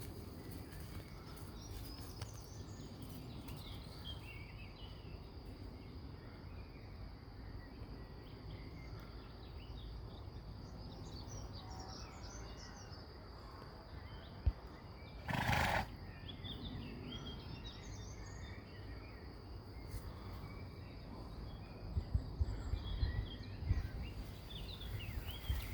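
Outdoor ambience of small birds chirping on and off over a low wind rumble and a steady high hum. About halfway through there is one short, loud, breathy blast, and a few low knocks come near the end.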